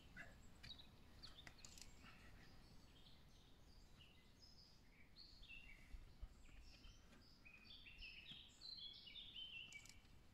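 Faint songbird song: scattered short high chirps, then a run of stepped falling notes near the end. A few faint ticks in the first two seconds.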